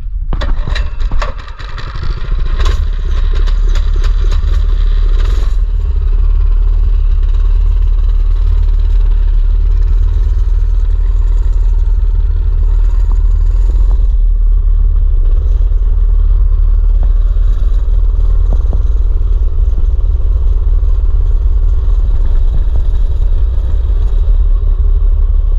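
Mini bike's small petrol engine running, with rattling and scraping clatter in the first five or six seconds, then a steady drone over a heavy low rumble.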